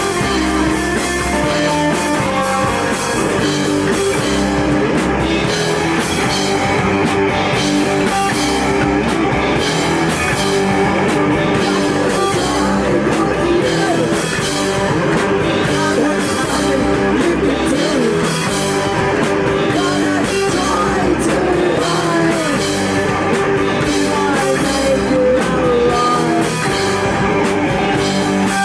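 Rock band playing live, loud and steady: electric guitars over a drum kit, with cymbals crashing throughout.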